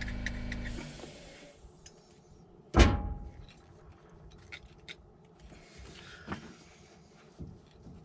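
Metal hand tools working at a pickup's front wheel hub: a steady mechanical hum with fast ticking stops about a second in. About three seconds in comes a sharp metallic clank that rings briefly, followed by scattered light metal taps and a couple of small knocks.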